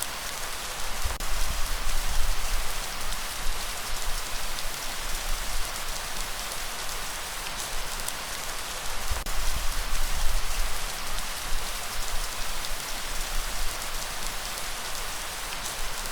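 Steady rain falling, a dense, even patter of drops. A low rumble swells twice beneath it, about a second in and again around the ninth second.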